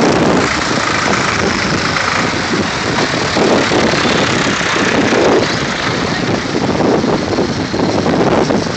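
Vintage tractor engines running, a loud continuous mechanical din.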